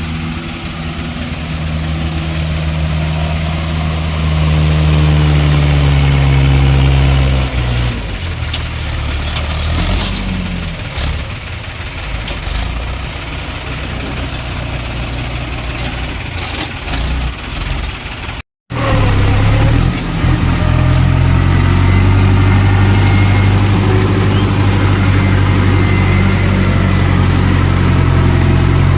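Mahindra tractor's diesel engine running hard. It revs up over a few seconds, drops back, and runs roughly for a while. After a brief cut it settles into steady running.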